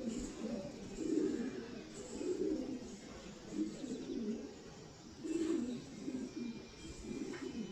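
Domestic pigeons cooing, a run of low coos one after another.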